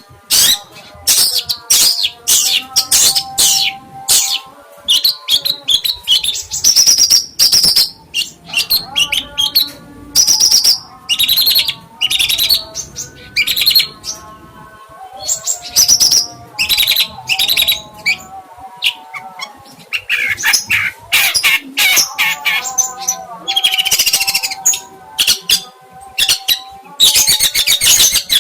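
A songbird singing rapid, loud bursts of chirps and trills in quick repeated phrases, the kind of song played as a masteran (tutor) recording for training other birds, over a lower steady tonal layer.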